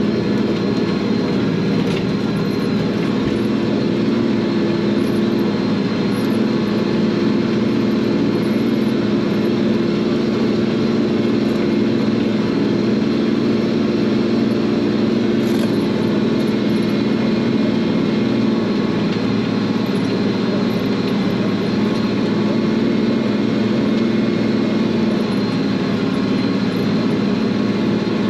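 Tractor diesel engine running steadily at constant speed under field load, pulling a field cultivator.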